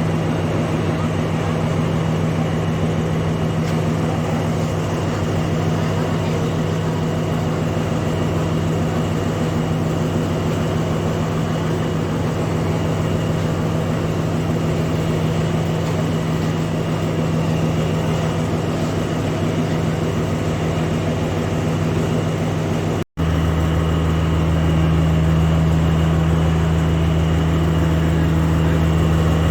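Steady low drone of an idling diesel locomotive engine, with faint voices of people around it. The sound drops out for an instant about 23 s in and returns with a deeper, heavier hum.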